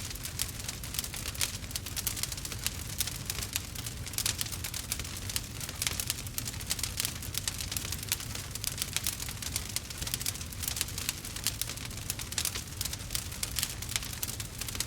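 Burning wood fire crackling steadily: a dense run of small sharp pops and snaps over a low, even rumble.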